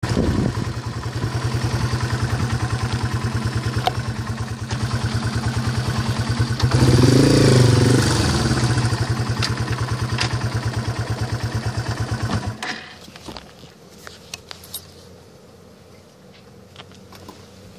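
A 2014 Yamaha TW200's single-cylinder four-stroke engine running under way, with a louder swell in engine pitch about seven seconds in. The engine cuts off suddenly about twelve and a half seconds in, leaving only faint small clicks.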